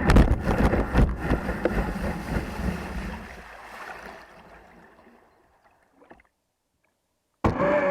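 A jet-powered kayak under way: rushing water and wind noise with a low rumble, fading out over a few seconds to silence. A whining tone cuts in suddenly near the end.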